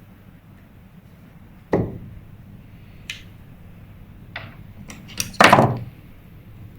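Sharp knocks and clicks of a tool working the seized anti-reverse of a Daiwa 1000X spinning reel. One loud knock comes about two seconds in, then a few lighter clicks, then the loudest, longer knock near the end. The mechanism is frozen and still not moving after a spray of lubricant.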